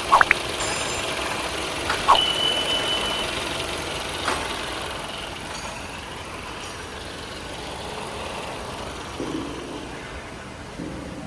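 Toyota 2AR-FE 2.5-litre four-cylinder engine idling steadily, with a few sharp clicks near the start and about two seconds in. The engine has a front-of-engine noise that was traced to a failing water pump.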